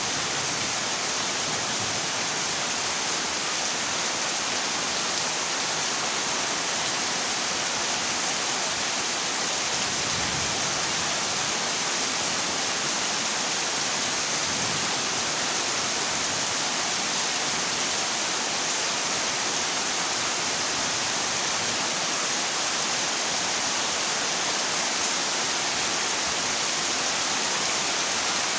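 Heavy rain falling steadily on a corrugated zinc roof, an even, unbroken hiss.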